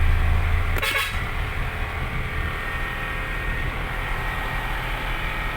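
Truck engine running steadily with road noise, heard from the cab. About a second in there is a short knock, and after it the engine's low hum is quieter.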